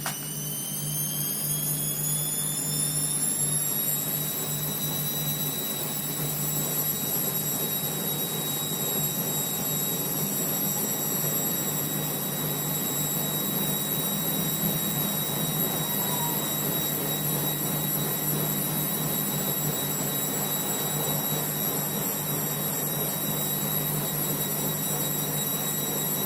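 Gorenje WP70S3 washing machine on the spin cycle, giving a loud, high-pitched whistle that rises in pitch as the drum speeds up over the first few seconds, then holds one steady note over a low hum. The whistle has been there on spin since the machine was new.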